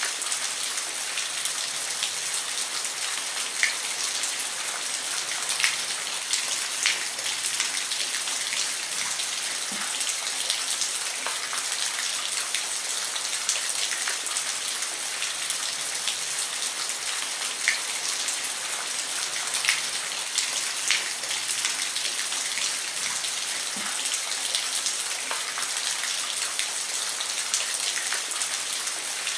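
Steady rain falling on a roof: an even hiss with many individual drops ticking sharply, a few louder than the rest.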